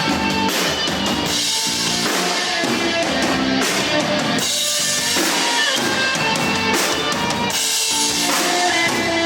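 An indie rock band playing live without vocals: a full drum kit with kick drum keeping a steady beat under electric guitar and bass.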